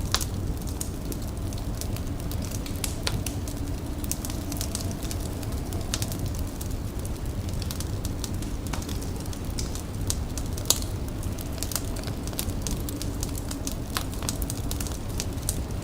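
Indoor fire crackling: irregular sharp pops and snaps, one louder pop about eleven seconds in, over a steady low rumble.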